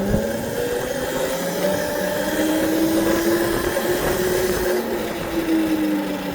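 Motorbike's motor running under way, its pitch rising as the bike speeds up and then falling back as it eases off, with rushing wind noise.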